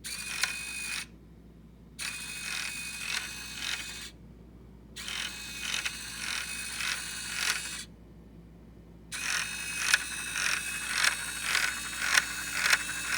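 Small electric motor turning 3D-printed plastic helical gears on a LEGO build, running in four short bursts with brief pauses between. Each burst has a steady high whine and a regular clicking of gear teeth, which gets stronger in the last, longest burst.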